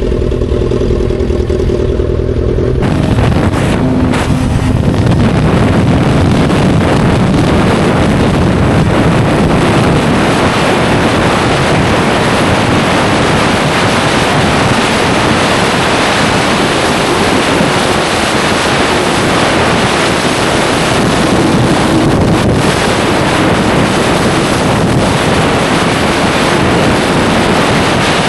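Motorcycle engine running at low revs, then from about three seconds in a loud, steady rush of wind noise on the microphone as the bike rides at speed, with the engine underneath.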